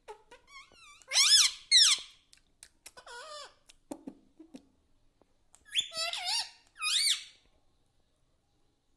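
Indian ringneck parrot calling in short high-pitched squeaky bursts, with louder spells about a second in and again about six seconds in.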